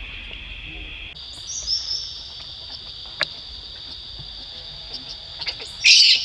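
Steady high-pitched insect drone that steps up in pitch about a second in, with a few brief high chirps and a click. Near the end comes a short, loud, shrill call.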